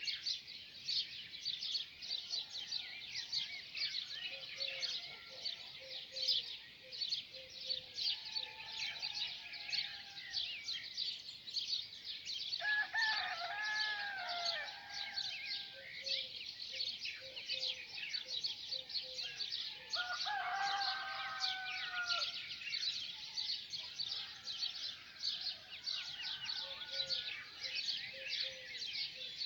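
A dense chorus of small birds chirping without pause, with a rooster crowing twice, once about 13 seconds in and again about 20 seconds in.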